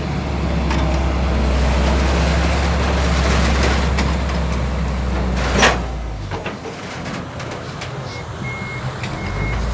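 18-wheel sand-hauling truck's diesel engine running steadily, with one brief sharp sound about five and a half seconds in; the engine drops away soon after. Near the end the truck's reversing alarm starts beeping in an even repeating series.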